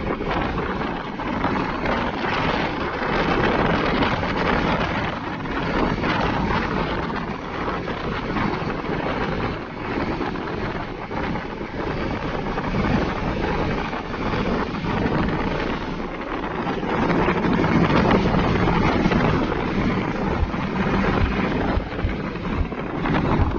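Road noise of heavy trucks driving on a highway: engines and tyres make a dense, fluctuating rush, with wind buffeting the microphone.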